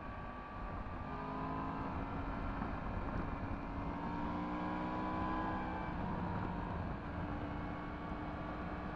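Yamaha MT-10 SP's crossplane inline-four engine with an Akrapovic exhaust, running under way on the road. Its pitch rises about a second in as it accelerates, then holds fairly steady with small swells of throttle.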